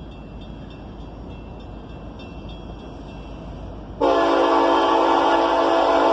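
Norfolk Southern freight locomotive's air horn sounding one long, loud chord that starts abruptly about four seconds in, over a low steady rumble.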